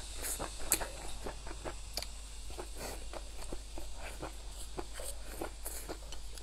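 Close-up chewing and lip-smacking of a person eating fried pork belly: a quick, irregular run of wet mouth clicks and smacks, with one sharper click about three-quarters of a second in.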